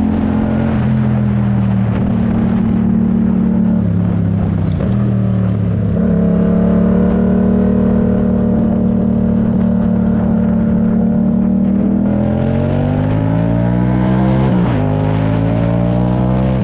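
Yamaha MT-07's parallel-twin engine pulling through the gears. The engine note drops suddenly at upshifts near the start and around four and five seconds in, then holds steady for several seconds. It climbs under acceleration and drops again at another shift near the end.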